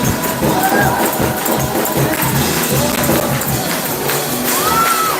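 Live church praise music with a tambourine shaking along in a steady rhythm.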